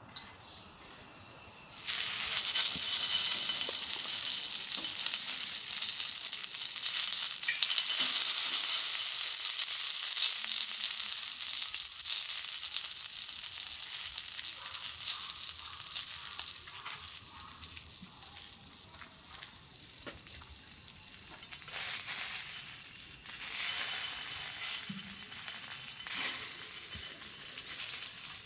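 Food sizzling as it fries in a pan. A sharp click comes first, then the sizzle starts about two seconds in and keeps going, swelling and easing.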